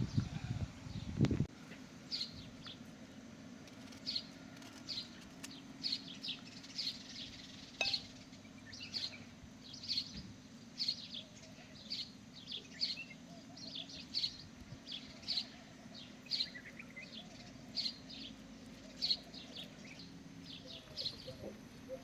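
Small birds chirping in short high calls, repeating every second or so, over a steady low hum. A single knock sounds about a second in.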